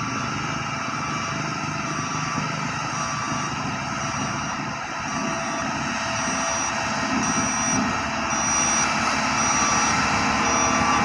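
A vehicle's engine running steadily, with a high reversing-alarm beep repeating a little more than once a second; it grows a little louder in the second half.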